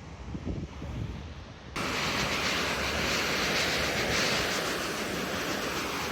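Low wind rumble with a few soft knocks, then about two seconds in an abrupt cut to the steady, loud rush of a waterfall's falling water.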